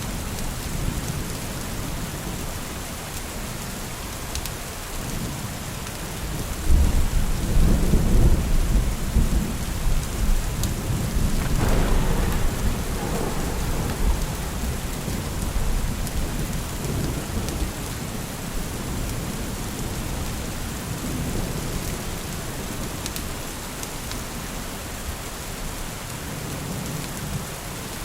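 Steady rain with a roll of thunder: a low rumble swells about seven seconds in, with a sharper crack around twelve seconds, then fades back under the rain.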